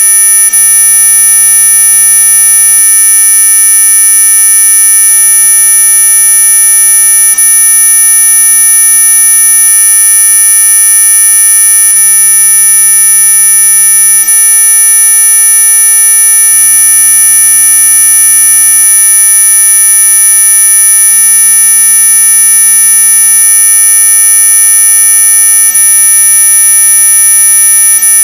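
Mosquito-repellent sound effect: a loud, steady electronic buzzing tone made of many pitches at once, the brightest very high up. It does not change in pitch or loudness.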